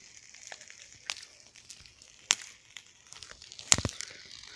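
Wood campfire crackling: a faint steady hiss broken by scattered sharp pops, the loudest about three and a half seconds in.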